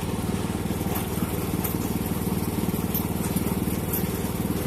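17 hp riding mower engine, fitted with a 750 Shadow motorcycle exhaust, running steadily with an even, rapid firing pulse.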